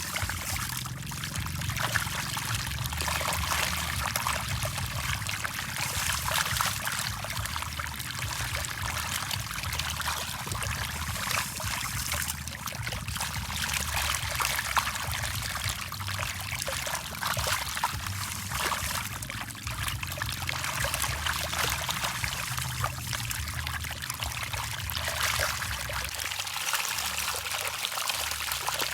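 Many fish splashing at the water's surface as they feed: a continuous dense patter of small splashes and trickling water.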